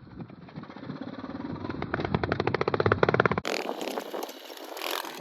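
Small single-cylinder pit bike engine running in rapid, even firing pulses that grow louder and quicker, breaking off about three and a half seconds in to rougher, noisier riding sound.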